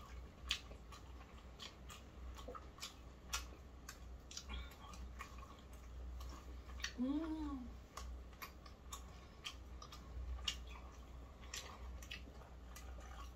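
Sauced Korean fried chicken being chewed close to the microphone: scattered small crisp crunches and mouth clicks, with one short hummed "mmm" of enjoyment about seven seconds in, over a steady low hum.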